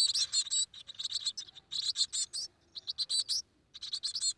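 Nestling birds chirping: rapid, high-pitched cheeps coming in short clusters with brief pauses between them.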